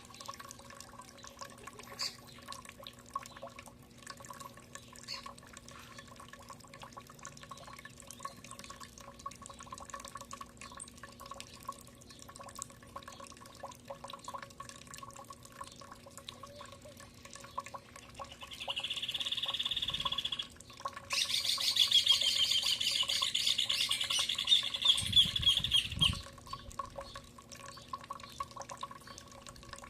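Birds at a feeding spot: scattered light clicks and drips over a faint steady hum. A bird calls briefly just before the middle, then a louder stretch of bird song lasts about five seconds.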